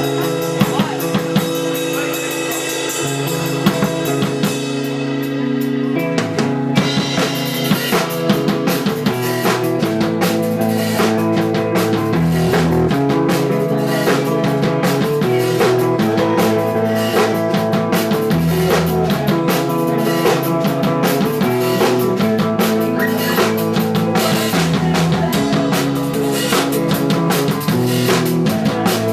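Loud punk rock music on electric guitar, bass and drum kit: held guitar chords, then the full band with driving drums comes in about seven seconds in.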